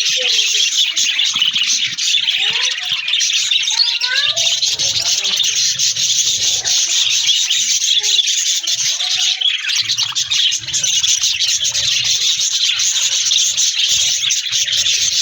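Budgerigars chattering steadily: a dense, high, continuous twitter with short warbling glides mixed in.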